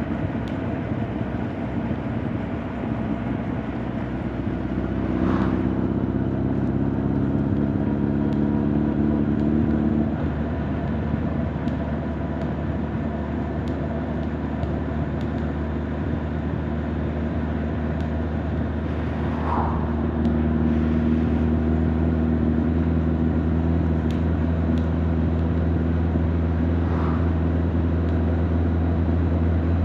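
Honda CB1300 Super Bol d'Or's inline-four engine and exhaust under way. The note is steady, gets louder about five seconds in, eases back after about ten seconds, and picks up again about twenty seconds in, heard from a mic on the rider's back with little wind noise.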